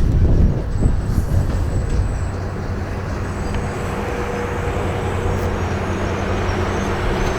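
New Jersey Transit Raritan Valley Line commuter train running by, a steady rumble with a low engine hum.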